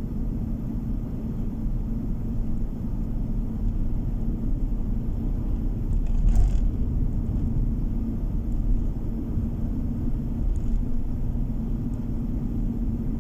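Car driving on the road, heard as a steady low rumble of tyre and engine noise with a faint steady hum underneath. A brief louder thump about halfway through.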